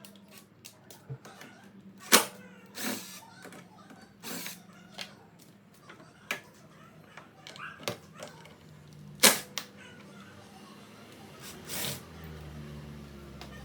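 Scattered clicks, clunks and short scrapes of hand tools and removed motorcycle parts being handled, with two sharp knocks about two and nine seconds in, over a faint steady hum.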